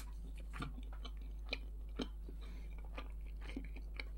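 Close-miked chewing of a mouthful of shawarma: scattered soft, wet mouth clicks and smacks.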